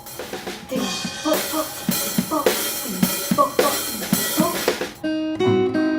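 Drum kit playing a fast pattern of snare, bass drum and tom hits, giving way at about five seconds to strummed guitar.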